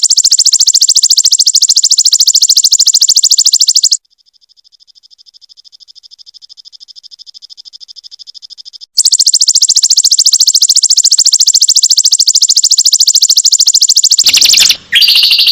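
Perenjak (prinia) singing its rapid-fire 'tembakan' song: a very fast trill of repeated high notes. It drops to a faint trill about four seconds in and comes back loud about nine seconds in. The notes break off and change pattern near the end.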